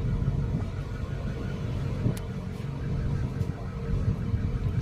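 A steady low rumble with a faint, even hum running through it.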